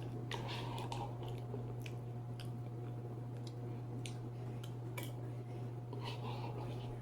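A person chewing and biting food close to the microphone, with small scattered mouth clicks, over a steady low hum.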